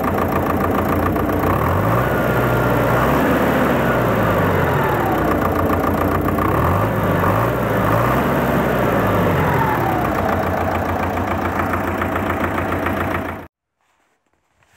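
D-243 four-cylinder tractor diesel running on its freshly repaired fuel injection pump, revved up and back down twice, running evenly now rather than misfiring on three cylinders. The sound cuts off suddenly near the end.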